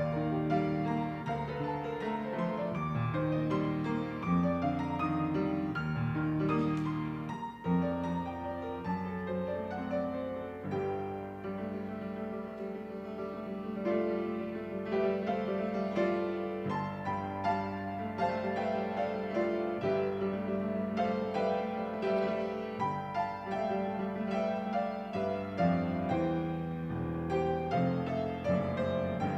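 Piano music playing continuously: a slow instrumental piece of chords and melody over held bass notes.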